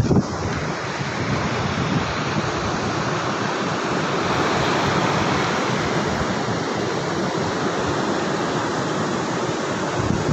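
Sea surf washing on the shore, a steady rushing hiss.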